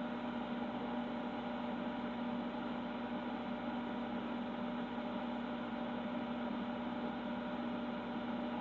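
Steady electrical hum with a low buzz, unchanging throughout.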